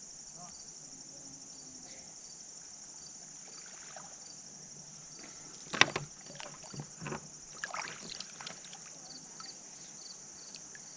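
Insects buzzing steadily with a high, pulsing drone. About six seconds in there is a sharp knock, then a few smaller knocks and splashes from the kayak and its gear on the water.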